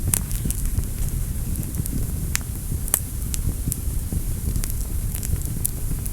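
Wood fire burning in a fireplace: a steady low rumble of flames with frequent irregular sharp crackles and pops, the loudest pop about three seconds in.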